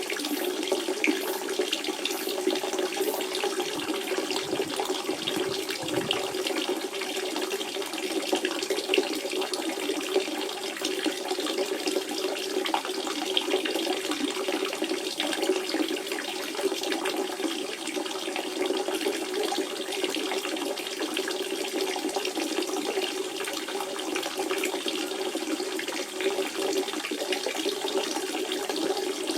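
Natural spring water running and splashing in a steady, unbroken flow.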